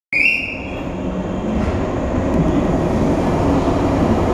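Steady low rumble and hum of a 115 series electric train standing at a covered station platform with its doors open, after a short high tone right at the start.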